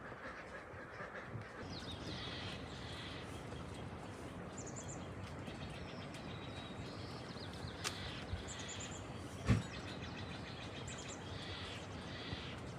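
Quiet outdoor ambience with faint, scattered high-pitched bird chirps, and a single dull thump about nine and a half seconds in.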